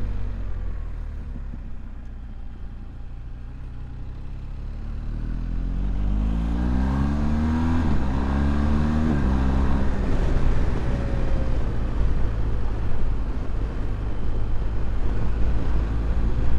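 Motorcycle engine running at low revs, then accelerating from about five seconds in. Its pitch climbs and drops back twice, at gear changes, before it settles into steady cruising.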